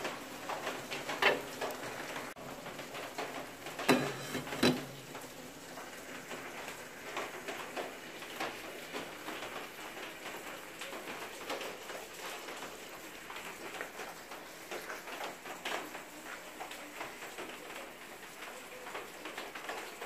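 Rain pattering steadily on a corrugated zinc roof. A few louder metal clanks in the first five seconds come from the stainless steamer pot and its lid.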